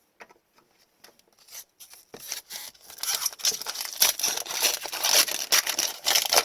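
A foil wrapper on a pack of 2020-21 Upper Deck Series 2 hockey cards being torn open and crinkled. The crackling starts about two seconds in and grows louder and denser through the rest.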